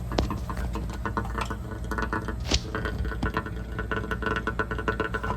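Water trickling and pattering out through the furnace's condensate drain, over the steady low hum of the running furnace, with a sharper click about halfway through. The flowing drain is the sign that the cleared drain line is now emptying properly.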